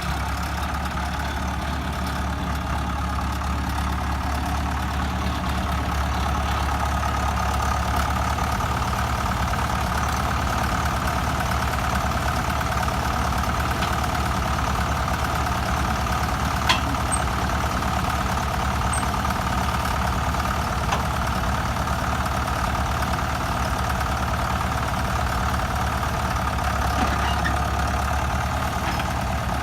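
Tractor engine running steadily at a constant speed, like an idle, with one short sharp click a bit over halfway through.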